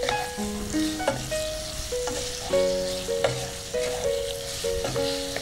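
Thin-sliced marinated chicken sizzling in oil over high heat in a nonstick pan, stirred with a wooden spatula that clicks and scrapes against the pan now and then. Background music with a melody of held notes plays over it.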